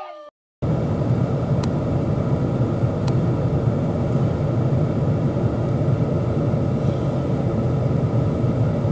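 Steady low rumble of a pickup truck driving, heard from inside the cab, with a couple of faint ticks a second or two in.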